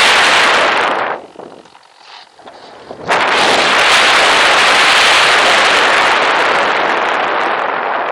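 Loud, steady rushing noise of airflow and motor on a model airplane's onboard camera. It falls away about a second in and cuts back in abruptly about three seconds in.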